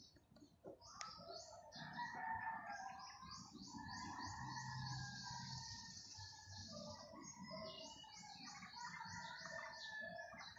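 Small birds chirping faintly in rapid runs of short, high chirps, densest through the middle.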